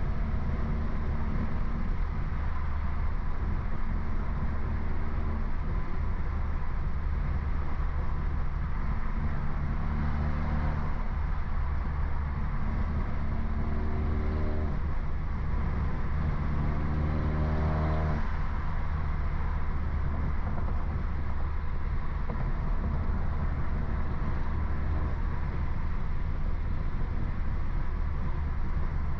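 BMW F30 328i's tuned, straight-piped 2.0-litre turbo four-cylinder droning steadily while driving, its engine note swelling up for a second or two at a time, three times in the middle.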